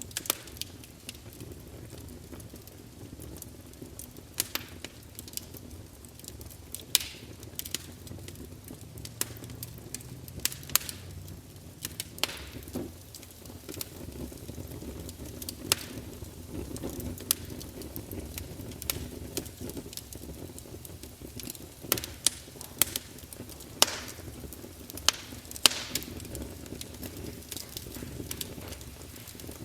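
Campfire burning: a steady low rumble of flames with irregular sharp crackles and pops of burning wood, several every few seconds.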